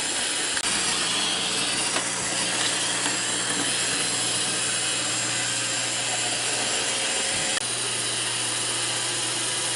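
iRobot Roomba 620 robot vacuum running as it cleans, a steady hum under an even rushing hiss from its motor and brushes.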